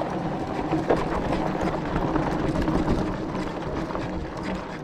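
E-bike climbing a rough, rocky dirt track: continual rattling and clattering of the bike and tyres over rock, with a steady motor whine underneath.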